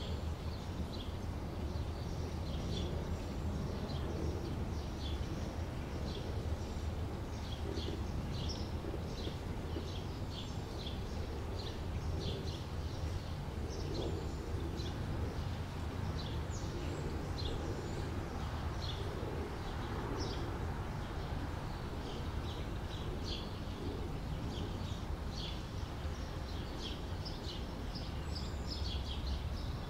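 Small birds chirping over and over, several short high chirps a second, over a steady low rumble of outdoor background noise.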